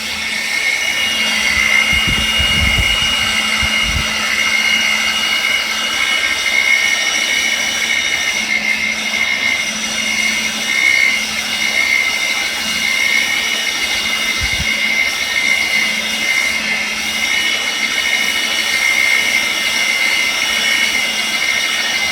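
Polypropylene plastic-welding tool running steadily, its motor and blower giving a constant high whine over a low hum, with a few low thumps in the first few seconds and again about two-thirds of the way through.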